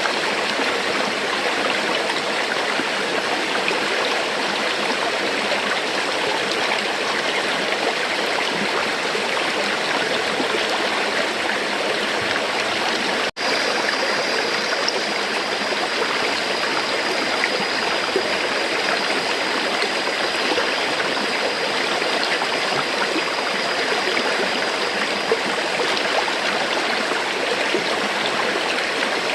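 River water flowing steadily over rocks, a continuous rushing and babbling. The sound drops out for an instant about 13 seconds in. A faint, steady high tone sits under the water for much of the rest.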